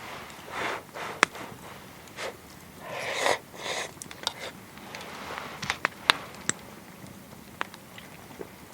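Rustling in short bursts, with a scattering of sharp clicks and taps, the loudest a little over a second in and about six seconds in.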